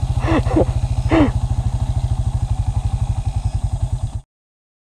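Dirt bike engine idling with a steady, evenly pulsing low beat, with two short vocal exclamations about half a second and a second in. The sound cuts off abruptly about four seconds in.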